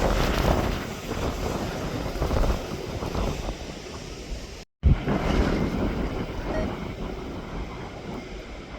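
Wind buffeting the microphone in gusts, a rough rumbling noise, broken by a brief total dropout just under five seconds in.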